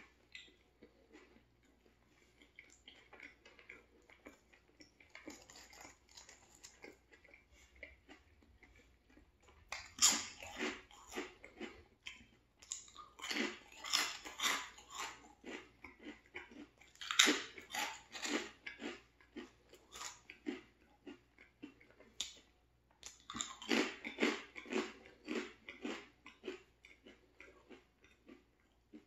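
Close-miked chewing of a turkey sandwich and crinkle-cut veggie chips. Soft, quiet chewing at first, then from about ten seconds in loud, rapid crunching in four runs of a few seconds each.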